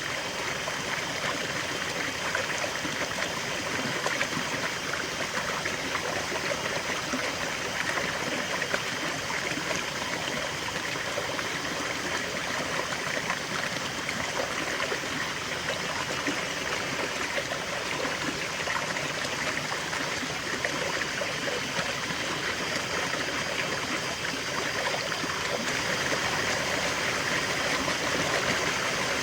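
River water flowing steadily over stones, a continuous babbling rush with fine trickling and gurgling detail.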